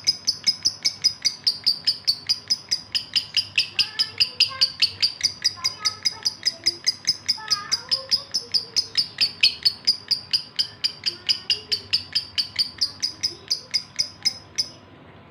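Male lovebird in breeding condition calling: a steady run of short, high chirps at about five or six a second, which stops abruptly near the end.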